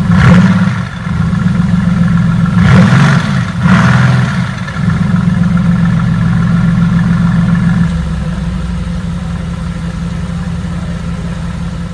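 Mercedes-AMG GT S 4.0-litre twin-turbo V8's exhaust: three short revs in the first five seconds, then a steady idle that settles lower about eight seconds in.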